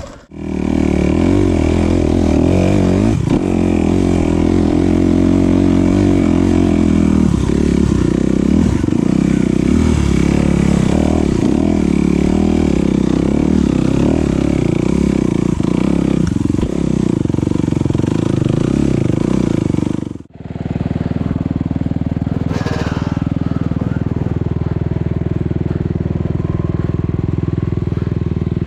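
Enduro motorcycle engine running under constantly changing throttle, the pitch rising and falling. After a brief drop about twenty seconds in, it runs at a steadier pitch.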